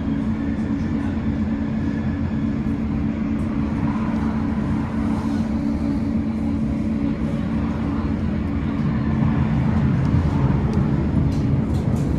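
Tram running between stops, heard from inside the car: a steady rumble of wheels on rails with a steady low hum from the drive. It grows a little louder about nine seconds in, and a few light clicks come near the end.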